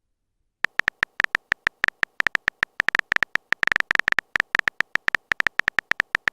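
Phone keyboard typing sound effect: a rapid, uneven run of short clicks, several a second, starting about half a second in.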